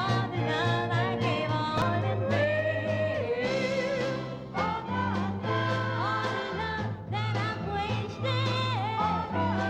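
Live band music with singing: a melodic line held in long, wavering notes over a steady bass and accompaniment.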